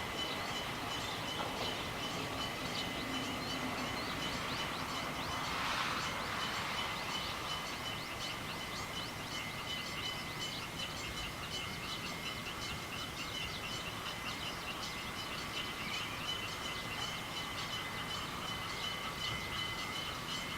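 Quiet outdoor background noise with scattered faint bird chirps over two faint, steady high-pitched hums.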